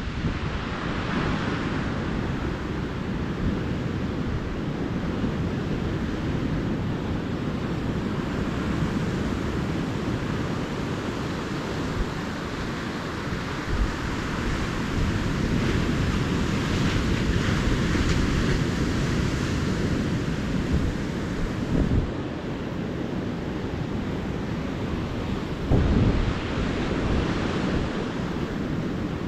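Ocean surf breaking and washing up a beach in a continuous rush, swelling brighter a couple of times as a wave runs in. A few short low buffets of wind on the microphone.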